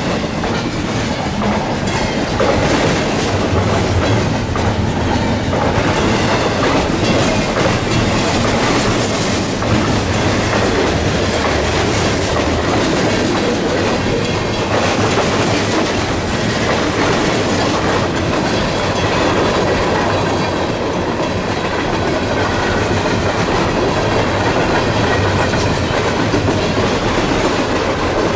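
Long freight train passing close by: a steady, loud rumble of steel wheels on rail with the clickety-clack of the cars' wheel trucks, car after car of double-stack container flats, covered hoppers and gondolas.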